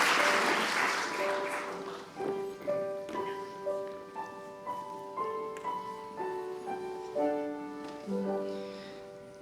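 Audience applause dying away over the first couple of seconds, then a piano playing a slow line of single notes, each new note struck about every half second and left ringing.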